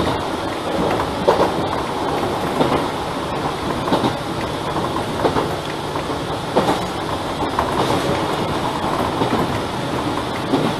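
Enshu Railway 1000-series electric train running along the line, heard from inside the cab end: a steady running noise with the wheels clacking over rail joints about once every 1.3 seconds.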